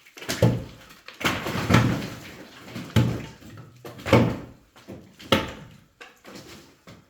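Heavy wooden and masonry knocks during hand demolition of a wall: about six hard blows roughly a second apart, each a deep thud with a short ring, then a few lighter knocks near the end.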